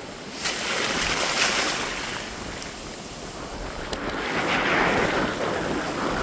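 Sea waves surging and washing in, with one swell rising about half a second in and a second one building around four to five seconds in.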